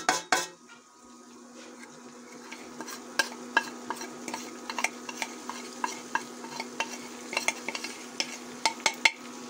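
Oil sizzling in a steel pot of frying onions and ginger-garlic as ground spices are knocked off a plate into it, with sharp metal clicks of a spoon tapping the plate and pot, loudest in the first half second and then every second or so.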